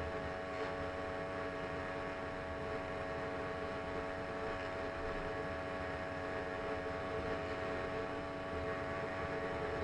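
Small engine of a motorized bicycle running at a steady speed, its note holding one unchanging pitch.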